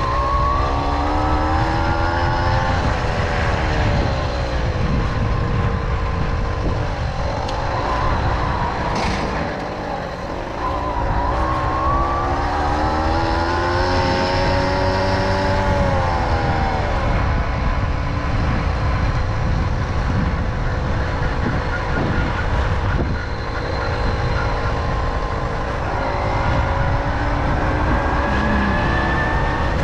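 Tomos Silver Bullet moped's two-stroke engine running under way, its pitch rising as it speeds up and falling as it eases off, several times over. Heavy wind buffeting on the microphone runs underneath.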